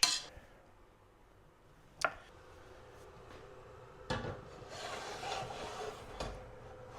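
Potatoes being mashed by hand in a pot: a single knock about two seconds in, then a couple of seconds of scraping, rubbing strokes that start and end with a knock. A faint steady hum runs underneath.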